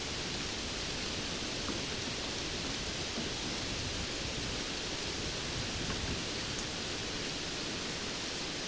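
Steady rainfall: an even hiss of rain with a few faint drop ticks.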